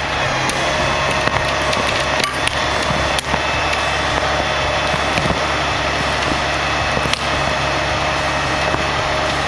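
Engine of heavy forestry machinery running steadily, with a few sharp cracks of wood splitting: about two and three seconds in, and again near seven seconds.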